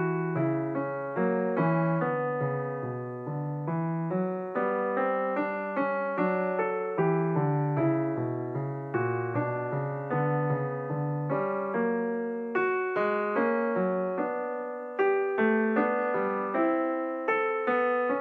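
Solo piano music: a steady flow of notes, several a second, each struck and fading, over a repeating chord pattern.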